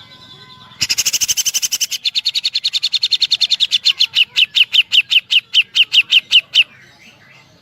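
Grey-cheeked bulbul (cucak jenggot) giving a woodpecker-like 'tembakan' call: a loud, rapid series of sharp, identical notes beginning about a second in. The notes slow down steadily until, near the end, they stop abruptly.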